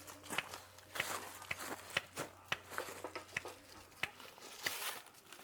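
Firewood giving scattered light clicks and snaps at an irregular pace, one or two a second.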